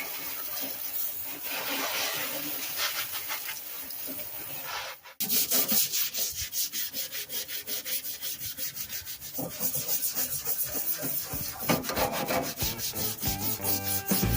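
Rusty steel toolbox being scrubbed by hand, back and forth, to clean off the rust and flaking surface. After a short break about five seconds in, the strokes come quick and even, about four a second.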